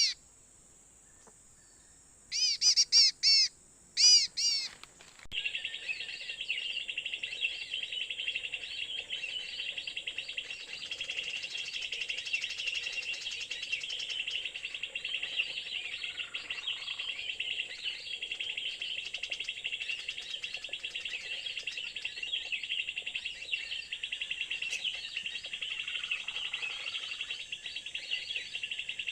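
Birds calling: a few loud, clear whistled notes a couple of seconds in, then continuous fast chirping and twittering.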